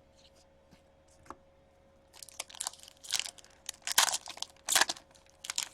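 Crinkling and tearing of a foil trading-card pack wrapper, in short sharp rustling bursts that start about two seconds in and are loudest near the end.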